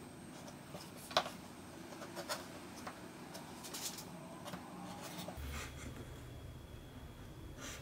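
Light scratching and rubbing of hand work on leather, with scattered small clicks and taps; the background changes abruptly about five seconds in.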